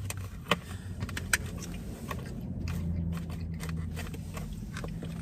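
Handling noises: a couple of sharp clicks, about half a second and a second and a half in, and light crackling ticks over a steady low hum.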